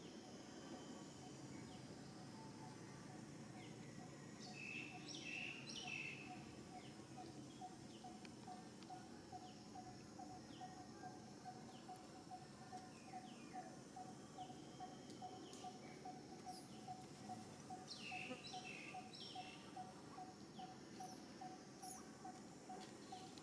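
Faint outdoor ambience with birds chirping in two short flurries of high calls, over a steady, rapidly pulsing low note.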